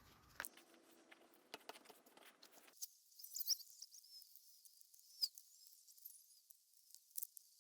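Scattered light clicks and taps with a few brief high scraping sounds, typical of small engine parts and hand tools being handled on a workbench.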